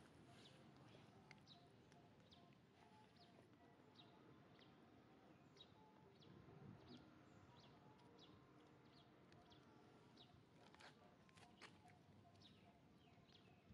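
Near silence: faint outdoor ambience with a small bird's short, high, falling chirps repeating about once a second, and a few faint clicks near the end.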